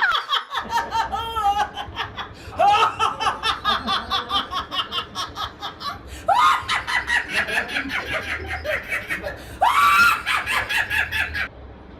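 A person laughing hard in long fits of rapid ha-ha pulses, about three or four a second. Each new fit starts with a high, rising squeal, and the laughter cuts off suddenly near the end.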